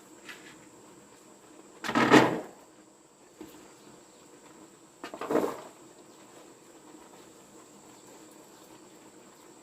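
Two brief handling sounds, knocks or scrapes of household objects, about three seconds apart, the first the louder.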